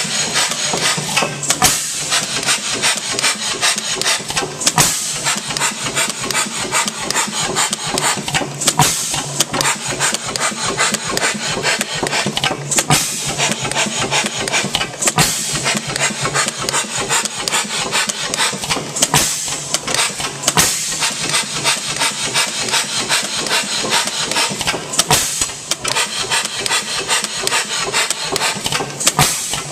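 H.M. Spence hit-and-miss gas engine running: a steady fast mechanical clatter with louder knocks every few seconds, irregularly spaced.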